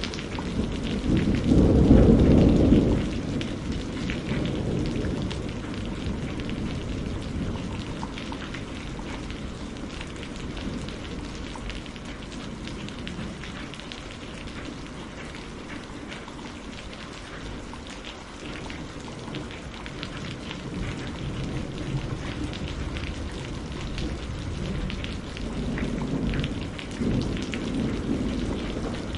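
Steady rain with a thunderstorm: a loud roll of thunder about a second or two in that fades over several seconds, and more thunder rumbling up again near the end.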